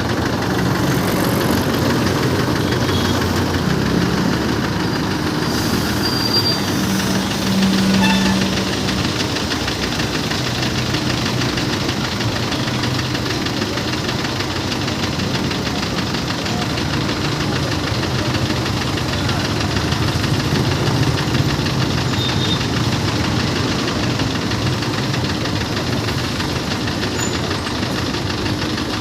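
An engine running steadily, a constant low drone with a few steady hums and a brief swell about eight seconds in.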